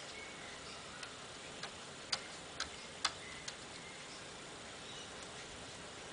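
A handful of sharp, irregular clicks or taps, about six between one and three and a half seconds in, the loudest just after three seconds, over a steady low hiss.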